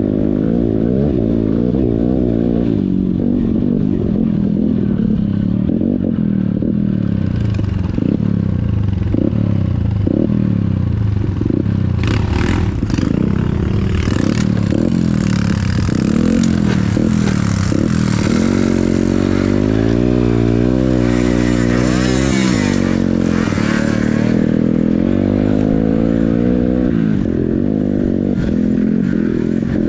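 Yamaha XTZ125 trail bike's single-cylinder four-stroke engine running under way, its revs rising and falling again and again as it is ridden. Through the middle a rattling, hissing noise joins the engine.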